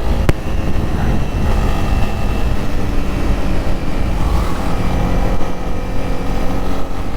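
Honda CB300R's 286cc single-cylinder four-stroke engine running steadily as the motorcycle is ridden, over a strong low rumble, with one sharp click about a third of a second in.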